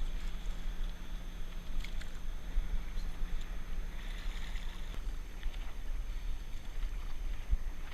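Stand-up paddleboard paddle dipping and splashing in the water, with a steady low rumble of wind on the microphone.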